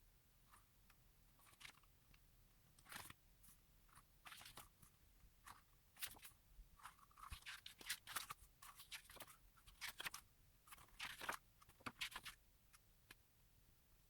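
Crinkling and rustling of plastic and paper packaging being handled, in a string of short, irregular crackles.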